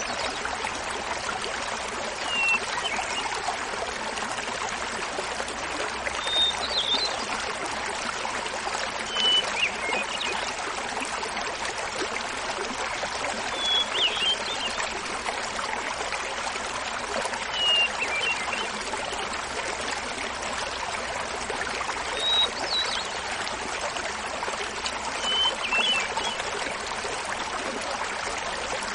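Small mountain waterfall splashing steadily, with a hermit thrush singing over it. The thrush sings seven short phrases, one every three to four seconds, each a clear opening note followed by a quick fluty flourish, alternating between a higher and a lower pitch.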